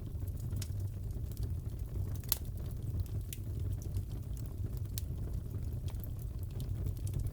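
Wood fire burning in a fireplace: a steady low rumble with irregular sharp crackles and pops, a louder pop a little past two seconds in.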